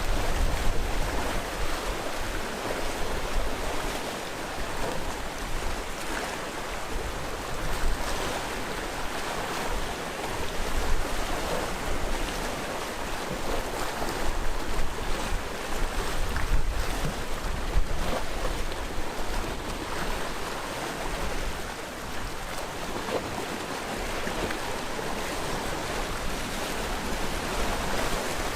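Sea waves washing and breaking on a rocky coast in a continuous surging wash, swelling and easing every few seconds, with some low wind rumble on the microphone.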